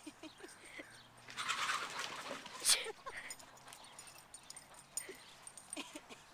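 Chickens calling in alarm as a dog chases them, with a rushing burst of noise about a second and a half in and one sharp, loud sound just before three seconds.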